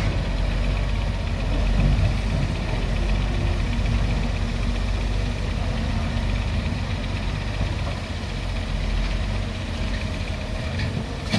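Volvo excavator's diesel engine running steadily at a low, even idle-like speed, a constant low hum with no revving.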